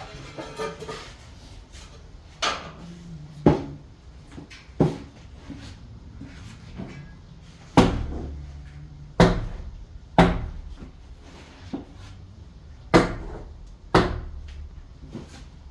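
A series of about eight sharp knocks, irregularly spaced a second or more apart, several with a heavy thud behind them, as from striking during tile work.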